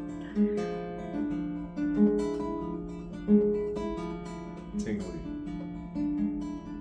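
Acoustic guitar being picked, one note after another in an arpeggio-like pattern, roughly one or two notes a second, each left ringing under the next.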